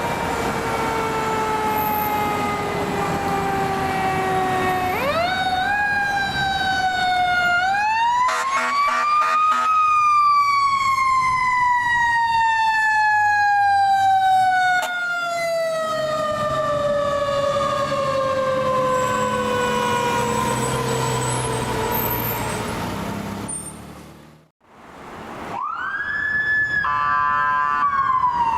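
Fire truck siren responding. Its pitch slides slowly down, climbs back up twice to a high peak about a third of the way in, then winds slowly down over many seconds. After a brief fade another siren rises, holds a high note and warbles quickly near the end.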